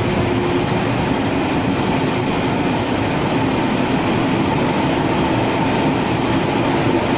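Taiwan Railways train running by, a steady loud rumble with a steady low hum and a few brief high squeaks.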